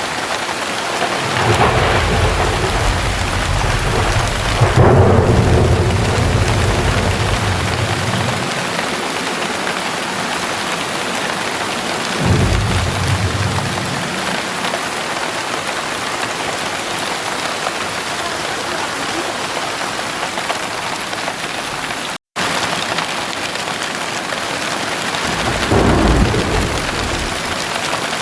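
Heavy rain falling steadily, with rolls of thunder: a long rumble building to its loudest about five seconds in, a shorter one around twelve seconds, and another near the end. The sound cuts out for a split second a little past the middle.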